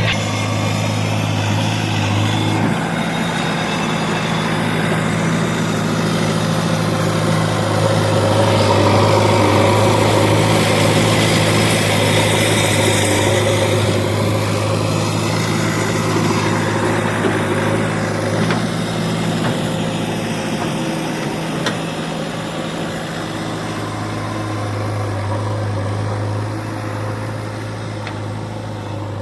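Diesel engine of a heavy farm or construction vehicle running steadily.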